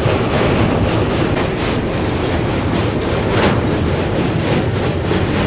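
Passenger train running at speed: a steady rumble and rush of wheels on track, with faint repeated clacks.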